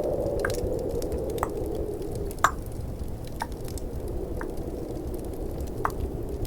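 Slow, mid-pitched tongue clicks, about one a second, over a steady snowstorm-and-fireplace ambience bed with faint crackling.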